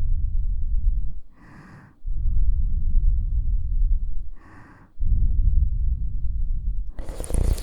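Breath blown onto the ears of a KU100 dummy-head microphone: long exhales heard as a low, buffeting rumble, with two short, brighter inhales between them and a louder, hissing rush near the end.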